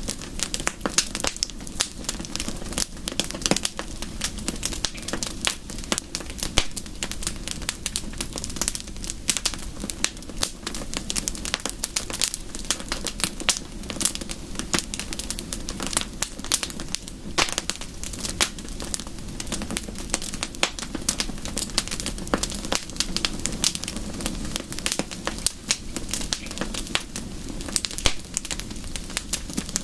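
Wood fire crackling: dense, irregular snaps and pops over a steady low rush.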